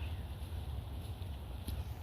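Wind blowing across the microphone: a low, uneven rumble.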